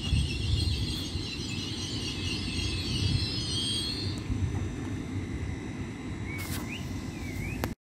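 GWR Class 800 train drawing to a stop at the platform: a low rumble with a high, wavering brake squeal that fades out about four seconds in. Two short high chirps near the end, then the sound cuts off abruptly.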